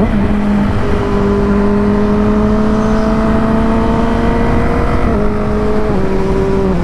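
Yamaha R6 inline-four engine pulling under acceleration, its pitch slowly rising, then stepping down twice near the end as it shifts up a gear each time, over heavy wind rush on the helmet microphone.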